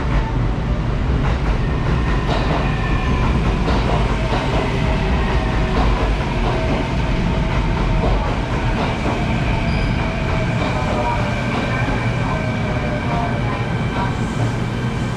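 Kintetsu electric train running along the platform: a steady rumble with wheels clacking over rail joints, and a whine that drifts slightly lower.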